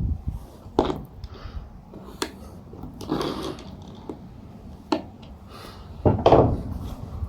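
Plywood lining panels being worked loose and handled in a van's cargo area: scattered sharp wooden knocks, with a louder, longer clatter about six seconds in.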